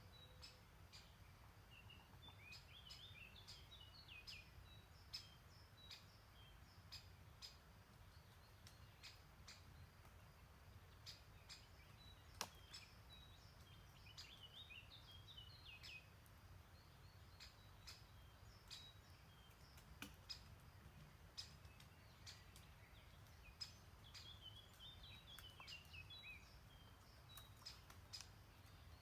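Faint songbird song: a short twittering phrase comes three times, about ten seconds apart. It sounds over a low steady rumble, with scattered sharp clicks throughout.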